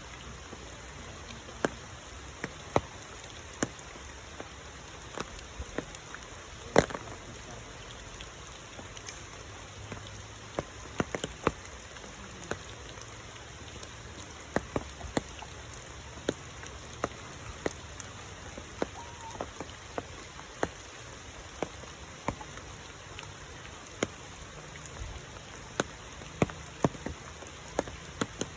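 Steady rain falling, with scattered sharp drops ticking irregularly on a nearby surface; one drop about seven seconds in is louder than the rest.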